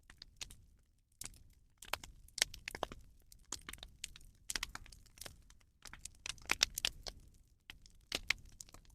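Bonfire of burning rubbish crackling, with irregular sharp snaps and pops in small clusters.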